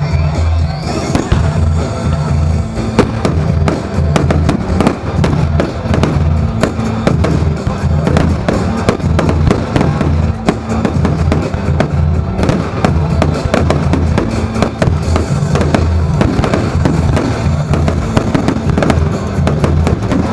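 Firework display going off continuously, a rapid run of bangs and crackles, over loud music with a heavy, steady bass beat.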